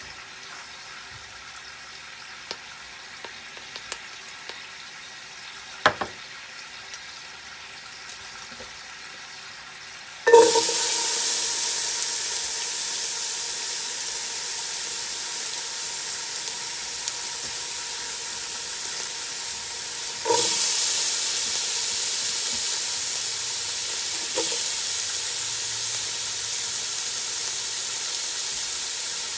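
Ginger, garlic and onions dropped into hot oil in a soup pot: after about ten seconds of quiet, a sudden loud sizzle starts and keeps frying steadily, with a fresh burst of sizzling when more goes in about ten seconds later.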